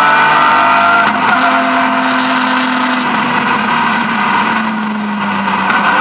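BMW E36 M3 rally car's straight-six engine under load, heard inside the stripped cabin with road and tyre noise. The engine note breaks briefly about a second in, then the revs sink slowly and pick up again near the end.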